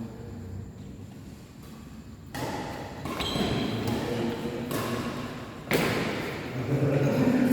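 Badminton rackets striking the shuttlecock in a rally, two sharp hits about two and a half seconds and about six seconds in, each ringing on in the hall's echo.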